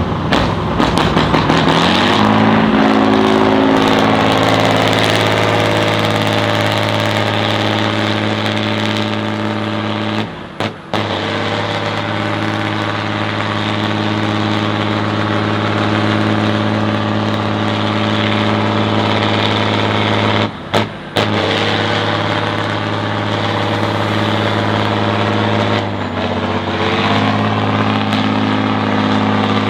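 Competition truck engine revving up over the first couple of seconds, then held at steady high revs, with two brief breaks and a short drop and climb in pitch near the end.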